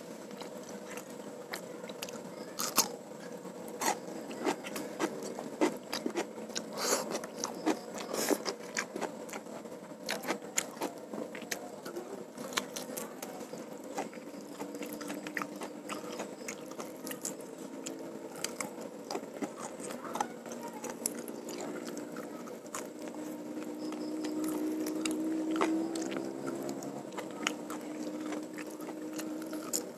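Close-miked chewing and biting of chicken and rice, with many sharp crunches and mouth clicks. In the second half a low steady hum rises under the chewing and is loudest near the end.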